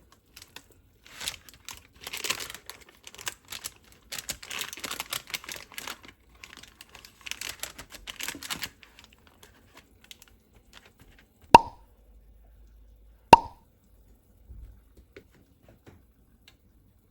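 Several seconds of rustling and crackling with small clicks, as of something being handled. Then two sharp knocks, each with a short ring, under two seconds apart.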